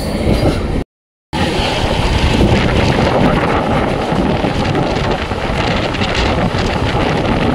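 Passenger train running at speed through a station, with a loud rush of wind on the microphone over the rumble and rattle of the coach. The sound cuts out briefly about a second in.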